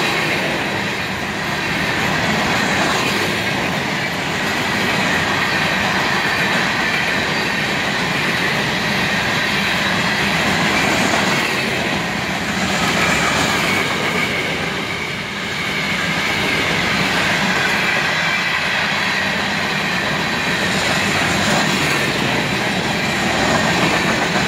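Freight train of open-top hopper cars rolling past close by: a steady rumble and clatter of steel wheels on the rails, with a thin high wheel squeal rising in and out at times.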